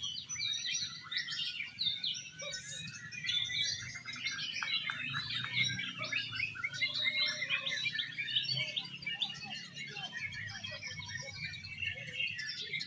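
Several oriental magpie-robins (kacer) singing at once, competing. It is a dense, unbroken stream of rapid chirps, whistles and trills overlapping one another.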